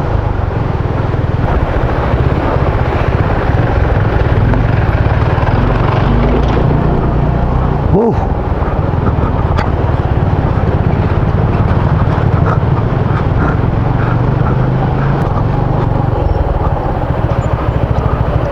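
Motorcycle engine running steadily under way on a rough road, with heavy wind rumble on the microphone. A short rise in engine pitch comes about eight seconds in.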